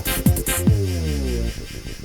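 Hardcore techno from a 1990s rave tape mix: pounding kick drums, then a falling-pitch synth sweep that cuts off suddenly about a second and a half in. A much quieter, fast ticking beat carries on after it.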